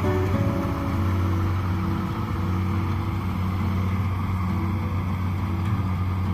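Kubota DC70 PLUS combine harvester's diesel engine running steadily.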